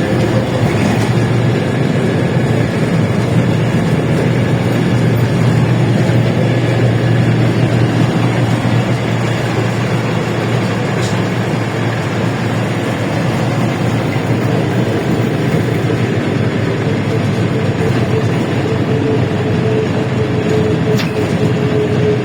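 LiAZ-677M bus heard from inside the cabin while driving: a steady engine drone with road and body noise. A higher whine grows stronger in the second half.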